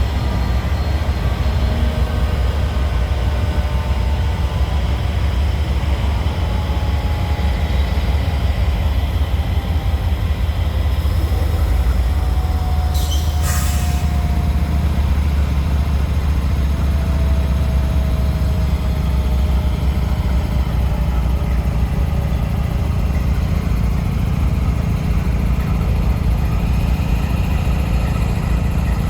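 Freight train rolling along the rails: a steady low rumble, with faint drawn-out wheel squeals that slowly fall in pitch and a brief hiss about thirteen seconds in.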